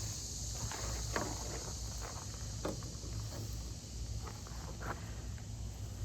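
Steady high-pitched chorus of insects, with a few short, soft clicks and rustles scattered through it.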